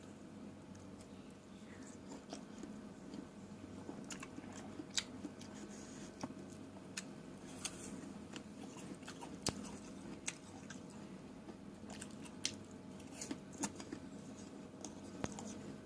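Close-up eating of fresh fruit: irregular crisp bites and wet chewing clicks, a few sharper crunches among them, over a steady low hum.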